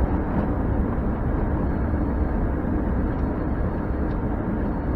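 Steady engine and road noise heard inside a truck's cab as it drives towing a heavily loaded trailer.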